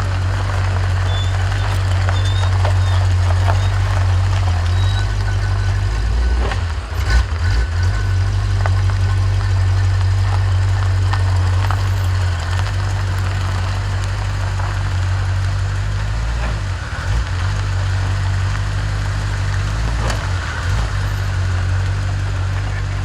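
Car engine running with a steady deep low rumble, with a brief louder jolt about seven seconds in.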